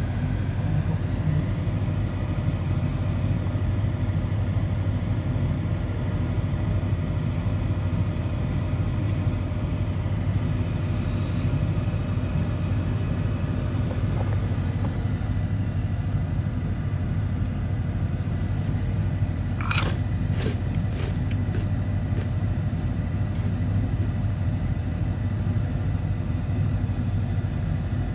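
Steady low vehicle rumble, as of a car running, with a run of about eight sharp clicks that fade and come closer together, starting about two-thirds of the way in.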